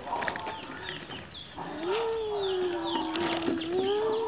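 Birds chirping in quick, short falling chirps. From about one and a half seconds in, a single long held pitched call or voice lasts over two seconds, dipping slightly and rising again at the end.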